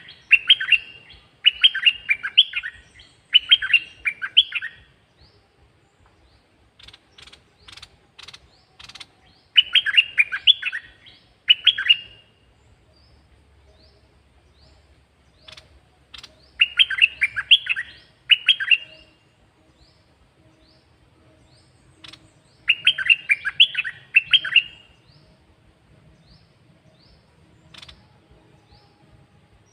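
Caged red-whiskered bulbul singing: short, quick, warbling phrases repeated in bursts, with soft single chirps in the pauses between them.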